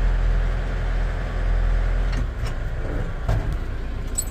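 Skidder's diesel engine running steadily, its deep rumble easing a little over two seconds in, with two short knocks near the end.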